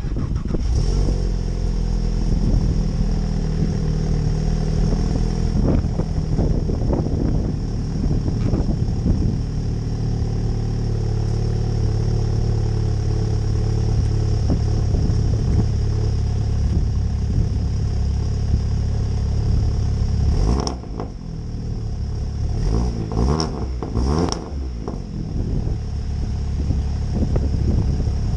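Volkswagen Golf GTI Mk7 Performance Pack's 2.0-litre turbocharged four-cylinder starting and idling through an exhaust with its middle resonator removed, with a couple of short throttle blips about three quarters of the way through.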